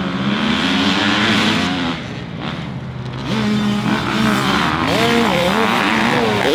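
Dirt bike engines revving, their pitch climbing and dropping again and again as the bikes ride and shift. The sound dips a little about two seconds in, then comes back up.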